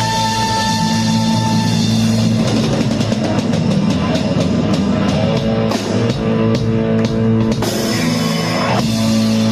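Rock band playing live: held guitar chords over a fast run of drum and cymbal hits in the middle, then a chord held on to the end, like a song's closing.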